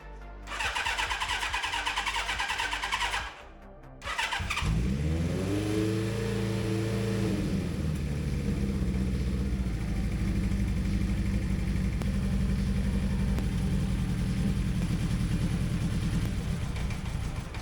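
Suzuki GS1000's air-cooled inline-four cranked on the electric starter. It catches about four and a half seconds in, revs up briefly and settles to a steady idle, its carburettors way out of sync.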